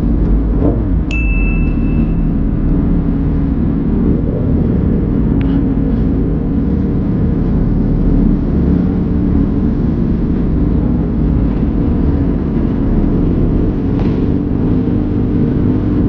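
Motorcycle riding along, a steady low rumble of engine and road noise, with a short high ding about a second in.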